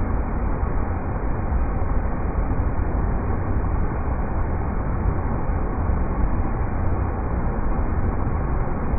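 River rapids: a steady, unbroken rush of water, heaviest in a deep low rumble.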